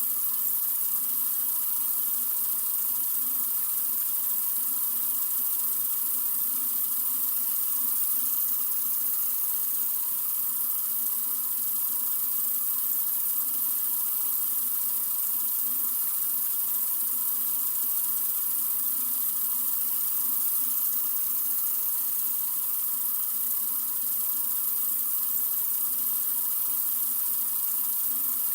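Tap water running steadily from a sink faucet: a constant hiss of the stream, unchanging throughout.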